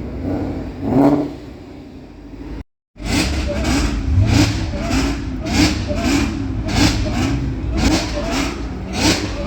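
Car engines revving repeatedly in short rising and falling pulses. The sound drops out completely for a moment about three seconds in, then the revving picks up again.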